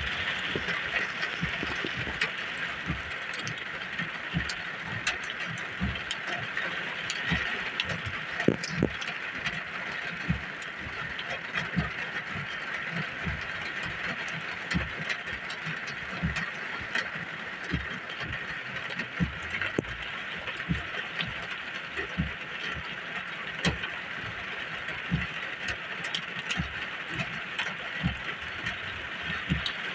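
Heavy rain falling steadily, a constant hiss with many irregular heavy drops tapping and knocking on a nearby surface.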